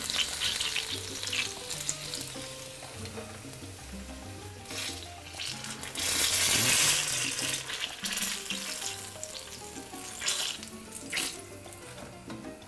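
Battered banana fritters deep-frying in hot oil, sizzling steadily as steam is driven out of the banana, with several louder surges of sizzling, the biggest a little past halfway. The vigorous sizzle and bubbling show the oil is hot enough; without it the heat would be too low.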